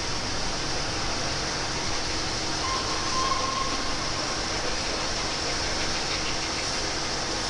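Steam-hauled passenger train rolling slowly past: a steady noise of wheels on the rails, with a brief squeal about three seconds in.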